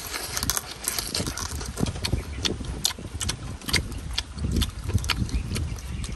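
Close-up eating sounds of two people chewing roast duck: wet mouth smacks and chewing clicks, coming irregularly several times a second.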